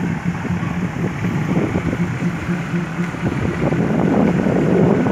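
Diesel train engine running with a steady low hum, under rough wind noise on the microphone, growing a little louder near the end.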